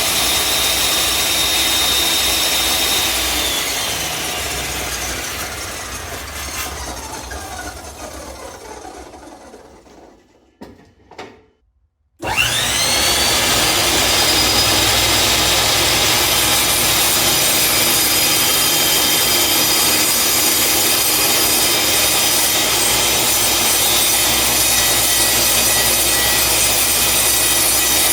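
A Hitachi C12Y 12-inch table saw running, then switched off: the motor and blade wind down, falling in pitch over about seven seconds to near silence. About twelve seconds in it is switched on again, spins up within a second and runs steadily.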